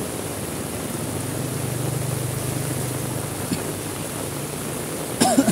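Heavy rain falling as a steady hiss, with a low engine hum from a passing vehicle rising and fading from about a second in to past the middle. A voice starts briefly right at the end.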